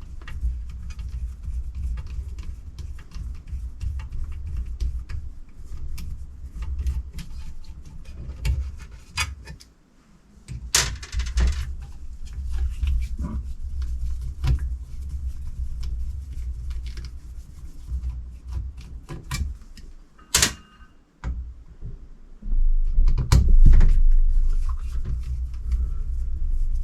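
Hand tools and parts clicking, scraping and knocking on the metal housing of an electric supercharger as it is taken apart, with a few sharper knocks and a low rumble of handling underneath.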